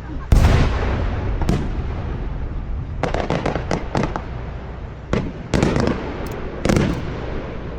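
Aerial fireworks bursting: a heavy boom about a third of a second in, another boom a second later, then a quick run of crackling pops midway and a few more booms near the end.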